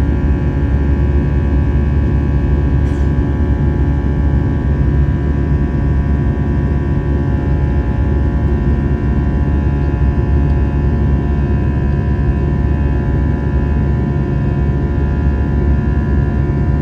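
Airbus A320-214 cabin noise: its CFM56 jet engines and the airflow give a loud, steady drone with a low rumble and several steady tones, with a faint tick about three seconds in.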